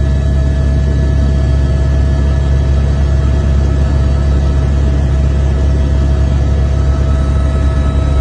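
Glacial lake outburst floodwater in full spate: a loud, steady, deep rumbling roar of the torrent with no break, and a few faint steady tones over it.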